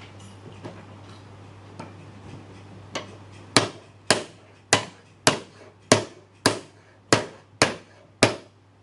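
Hammer blows on wood driving mortise-and-tenon joints of a small cabinet together: ten evenly spaced strikes, just under two a second, starting about three seconds in, the first lighter than the rest.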